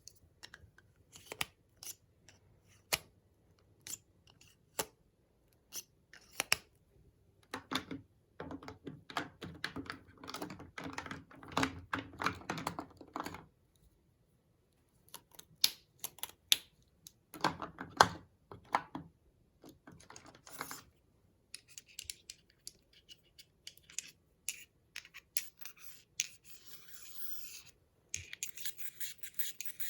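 Makeup items being handled close up: sharp clicks and taps of plastic cases and caps, with stretches of scratching and rubbing, the longest a few seconds in and a hissy, brushing texture near the end.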